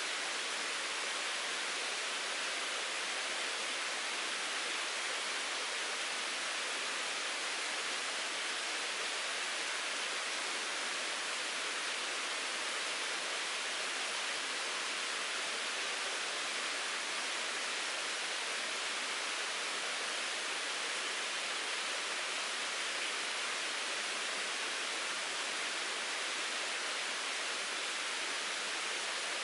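Mountain stream running, a steady, even rushing of water with no breaks.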